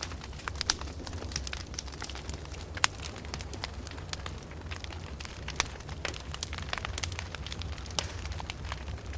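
Wood fire burning in a fireplace, crackling with irregular sharp pops and snaps over a steady low rumble; the loudest pops come about a second and three seconds in.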